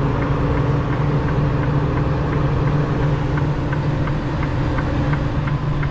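Diesel engine of a 2021 Freightliner Cascadia semi truck running steadily at low speed, heard from inside the cab, with a light, even ticking about three times a second.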